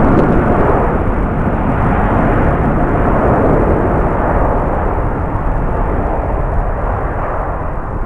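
Jet airliner engines running with a steady roar that slowly fades toward the end.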